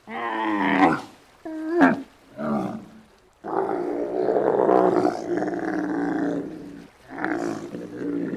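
A run of animal calls: two or three short calls that fall in pitch, then one long rough call lasting about three and a half seconds, then another short call near the end.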